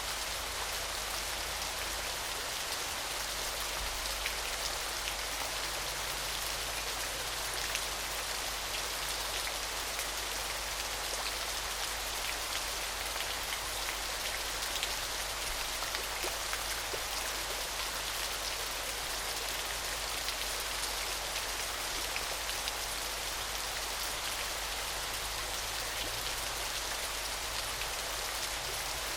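Small, gentle waterfall splashing steadily: an even, hissy rush of water that sits mostly high, dotted with fine ticks of falling drops.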